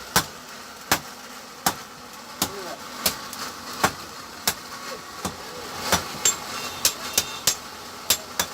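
Hand hammer striking metal on an anvil in a steady rhythm, about one blow every three-quarters of a second, quickening to faster, lighter blows about six seconds in.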